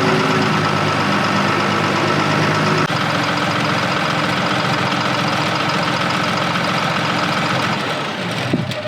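Caterpillar 938F wheel loader's 3116 straight-six diesel running steadily, its note dropping about three seconds in and the sound falling away near the end.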